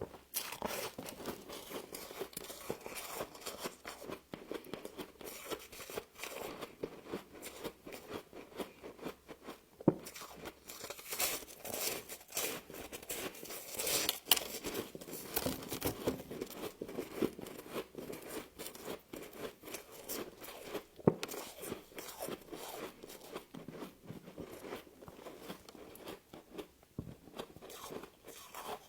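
A person biting and chewing crunchy frost close to the microphone: continuous irregular crunching, with a few louder crunches along the way.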